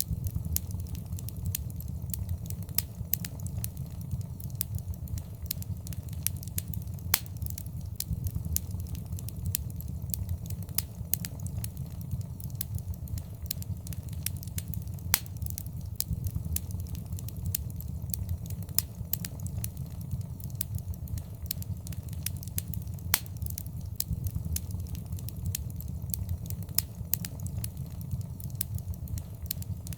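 Wood fire in a fireplace crackling, with a steady low rumble of the flames and frequent sharp pops and snaps scattered irregularly throughout.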